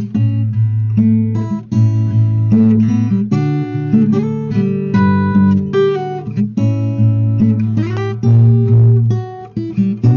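Acoustic guitar music: chords strummed and notes plucked one after another, with strong low bass notes under them.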